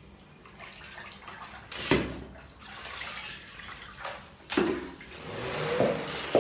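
Water sloshing and splashing in a spin mop bucket, with two sharp knocks, about two and four and a half seconds in. The splashing swells near the end.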